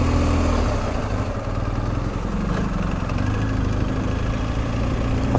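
BMW R 1250 GS Adventure's boxer twin engine running as the motorcycle rides along, with rushing wind noise. The engine note shifts about a second in.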